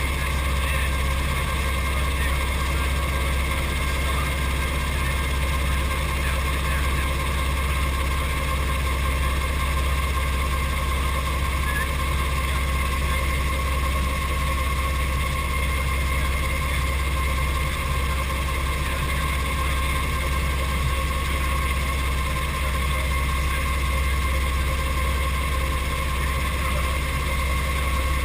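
Brantly B2B helicopter's piston engine and rotor running steadily, a constant low drone with a steady whine above it and no change in pitch or level.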